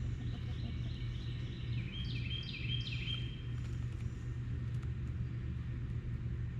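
A bird sings a short run of quick, repeated high notes in the first half, over a steady low rumble.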